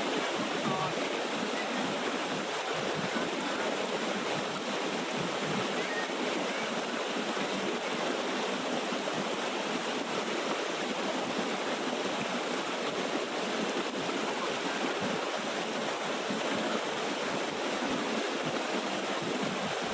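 Water of a small waterfall rushing and splashing in a steady, even hiss with no breaks.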